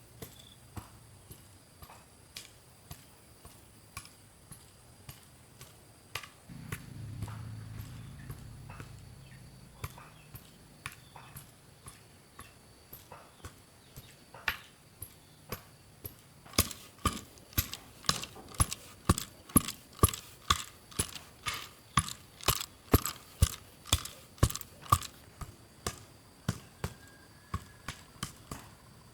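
Repeated sharp knocks, sparse at first, then a fast steady run of louder strikes, about two to three a second, from a little past the middle; a low rumble comes and goes about a quarter of the way in.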